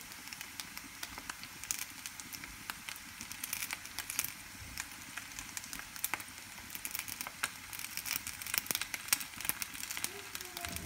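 Dumplings frying in hot oil in a non-stick frying pan: a steady sizzle with frequent, irregular crackling pops of spattering oil.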